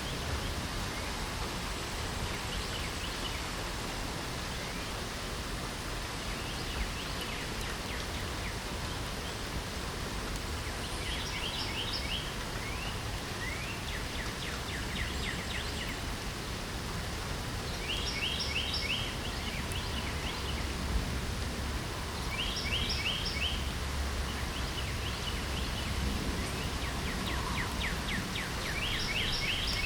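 Steady light rain falling, with a songbird singing a short phrase of quick high notes about five times, every few seconds.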